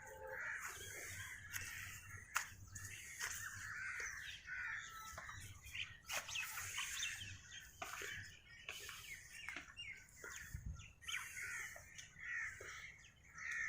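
Several birds chirping and calling, fairly faint, many short overlapping calls.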